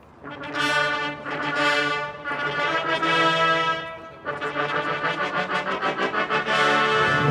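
Massed military brass fanfare band playing: loud held chords, a brief break just after four seconds, then quick repeated notes.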